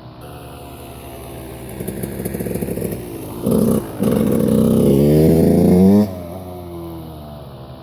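Dirt bike engine revving: a short throttle blip about three and a half seconds in, then a longer rev rising in pitch for about two seconds that cuts off suddenly as the throttle closes.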